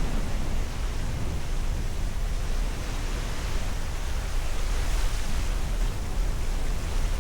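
Steady rushing wind noise with a heavy low rumble, as heard on a sailboat's microphone while the boat is under way at speed, mixed with the rush of water.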